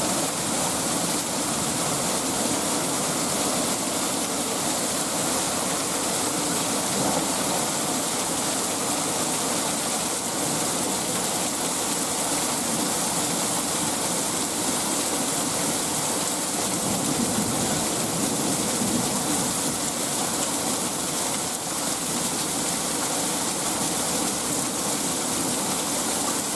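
Heavy rain falling steadily in a thunderstorm, an even, unbroken hiss.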